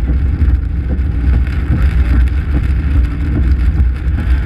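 Strong wind buffeting the microphone: a loud, steady, heavy low rumble with a hiss above it.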